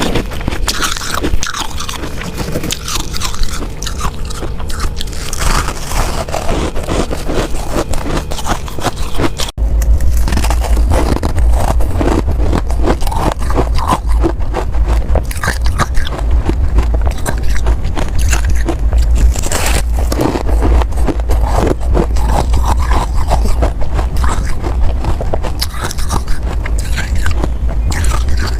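Close-up crunching of ice being bitten and chewed, mixed with scraping, in a dense run of irregular crunches. About ten seconds in, the sound cuts out for an instant, and after that a steady low hum runs beneath the crunching.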